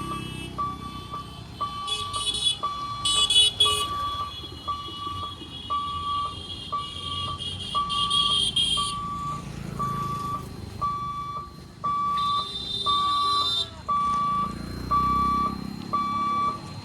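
Railway level-crossing warning alarm beeping on one high tone, evenly about twice a second. Shrill blasts sound over it about two seconds in, again from about seven to nine seconds, and near thirteen seconds, with low vehicle rumble underneath.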